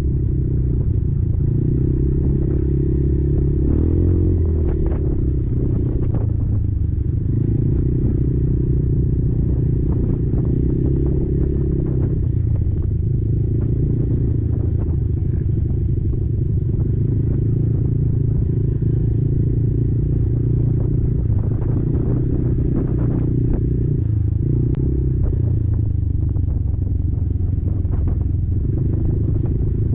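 Kymco Maxxer 300 quad's single-cylinder engine running under way, its pitch rising and falling a little with the throttle. Scattered short knocks and rattles sound over it.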